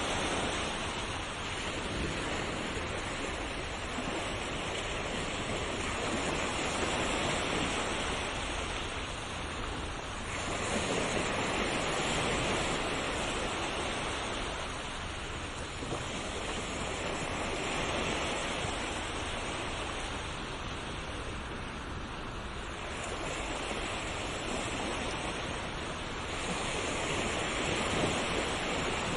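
Sea waves breaking and washing on a shore, a continuous surf that swells and eases every few seconds.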